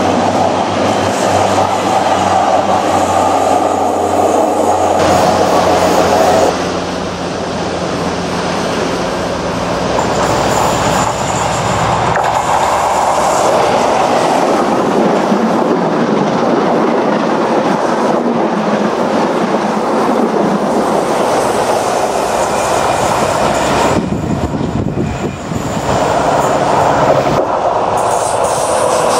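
Diesel passenger trains passing close by at speed, their wheels rattling over the rails, including an InterCity 125 (HST) with its class 43 power car going by. The sound is loud throughout and changes abruptly several times.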